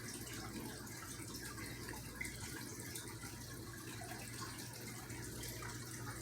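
Water running steadily, fairly faint, with a low hum beneath it.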